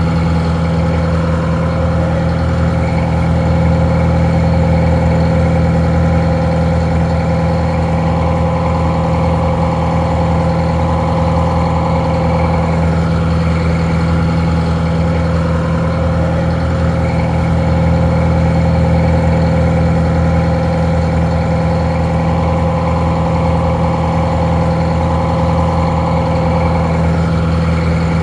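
Detroit Diesel 4-71, an inline four-cylinder two-stroke diesel, idling steadily with an even, unchanging beat. It sounds a little muffled.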